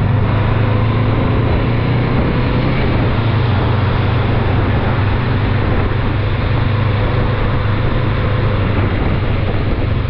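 Honda NX500 motorcycle riding at a steady speed: constant wind and road noise over a steady low engine drone.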